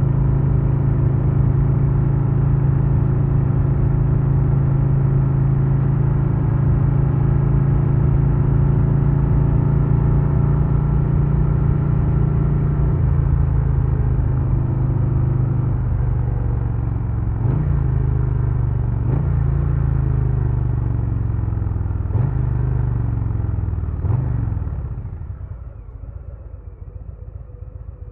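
2022 Harley-Davidson Low Rider S's Milwaukee-Eight 117 V-twin engine and exhaust running steadily under way. In the second half there are four quick revs, then the engine drops off to a much quieter low note near the end.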